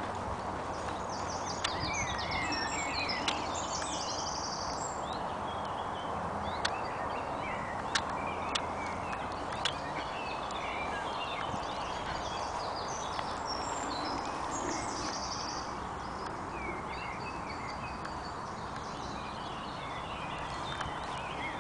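Several wild birds singing, with overlapping chirps and trills over a steady hiss. A handful of sharp clicks stand out in the first half.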